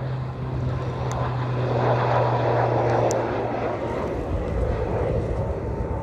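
Airliner passing close by, its engine noise swelling to a peak about two to three seconds in and then easing off, with a steady low hum that stops about four seconds in. Wind rumbles on the microphone.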